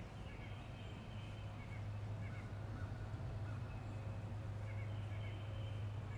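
Faint chirping of small backyard birds, short repeated calls, over a low steady hum.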